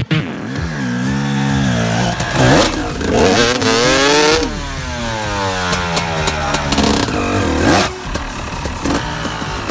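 Enduro dirt bike engine revving up and falling back again and again, with one long fall in the middle, as the rider tries to power the stuck bike up a steep bank. Clattering knocks come in toward the end.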